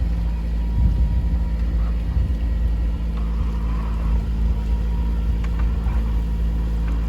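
Inboard diesel engine of a Bavaria 30 sailing yacht running steadily under way, motoring with no sail drive, heard as a steady low rumble with an even engine hum.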